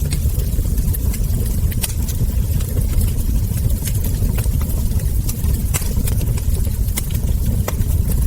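Wood fire burning: irregular sharp crackles and pops from the logs and embers over a steady low rumble.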